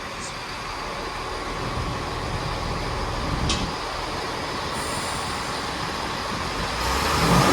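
Class 166 Networker Turbo diesel multiple unit pulling away, its engines rumbling. The rumble grows louder and deeper near the end as the engines open up, with a thin high whine in the second half.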